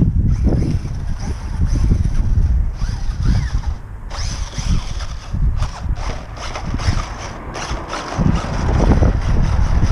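Wind buffeting the microphone, with the whine of a WLtoys RC short course truck's electric motor rising and falling as it drives.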